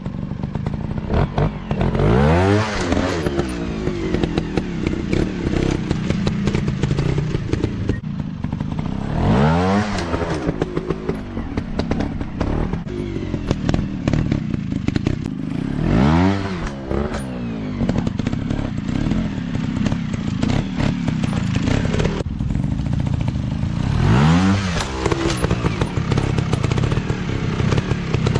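Dirt bike engine running, opened up four times about every seven seconds, its pitch rising and falling with each burst of throttle, with a rough, clattering engine note in between.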